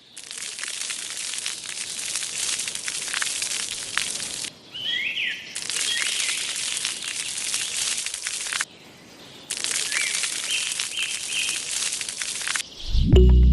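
Three stretches of steady hissing noise flecked with crackles, each starting and stopping abruptly, with birds chirping briefly in the gaps between them.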